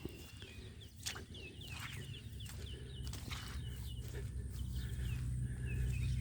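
Birds chirping outdoors in short, falling calls, with a few footfalls and a low rumble that grows louder toward the end.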